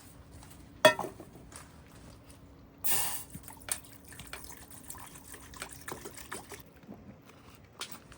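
Light clinks and taps of tableware with a short splash of liquid about three seconds in, over a faint steady hum. One sharp click stands out about a second in.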